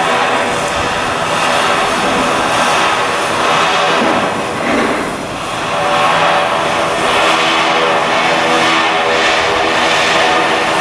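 Loud, steady drone of machinery with many steady tones mixed in, dipping briefly about halfway through.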